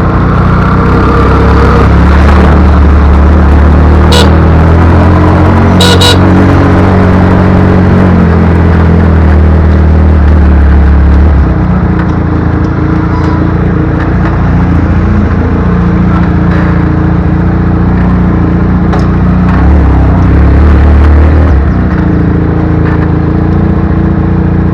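Motorcycle engine running steadily with some shifts in engine speed, as on a ride, along with a couple of brief sharp clicks.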